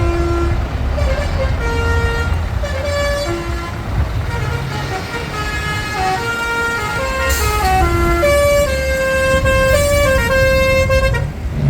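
A show truck's musical air horn playing a tune of short stepped notes, some sliding down, over the low running of passing diesel truck engines; the tune stops near the end.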